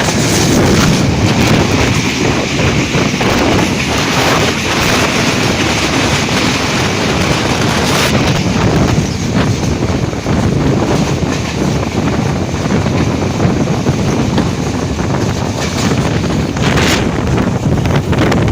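Uttara Devi express train running past on the track, a loud steady rumble and rush of noise mixed with heavy wind buffeting on the microphone.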